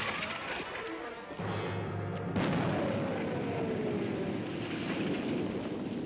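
Artillery barrage: a shell whistling down in pitch, then a loud blast about two and a half seconds in followed by another falling whistle, over rumbling explosions and dramatic music.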